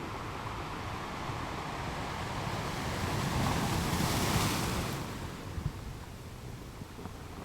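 Strong sea waves breaking on a beach: the surf swells to a loud, hissing break about four seconds in, then washes back and fades.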